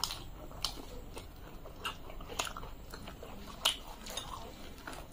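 Close-miked chewing of soft, wet food (luchi with malai cham cham), with about half a dozen sharp mouth clicks and lip smacks scattered through it.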